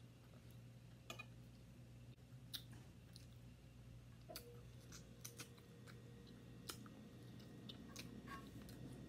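Faint close-up chewing with scattered sharp mouth clicks and smacks as a person eats, biting oxtail meat held in the fingers, over a low steady hum.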